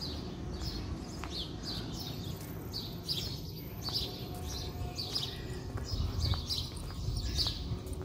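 Small birds chirping over and over in short falling notes, about two a second, with a low steady rumble underneath.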